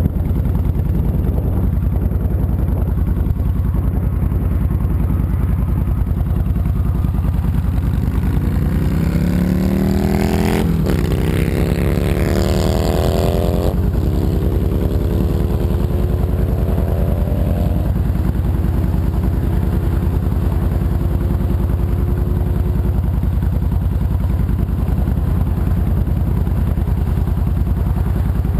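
2007 Honda VTX 1300C's V-twin engine running under way. About a third of the way in it accelerates, its pitch climbing and dropping back twice at gear changes, then settles to a steady cruise.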